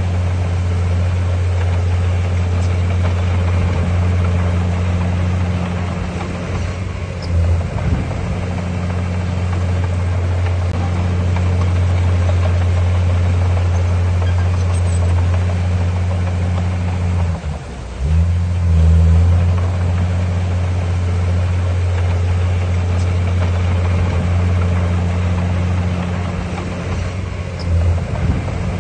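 Heavy diesel engine of earthmoving machinery running with a steady low drone, dipping briefly and picking back up about a quarter of the way in, just past halfway, and near the end.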